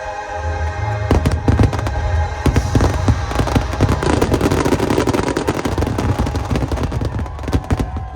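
Rapid barrage of fireworks: dense cracks and booms coming thick and fast from about a second in, over music.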